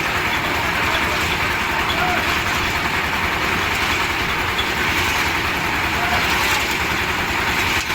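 Concrete mixer machine's engine running steadily.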